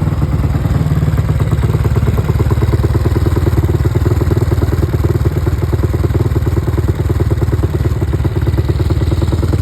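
Motorcycle engine running steadily and loudly close by, a fast even pulse with no change in revs.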